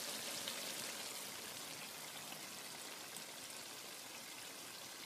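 Chicken karahi sizzling faintly in its oil in the pan: a steady fine hiss with a few small crackles, slowly growing quieter.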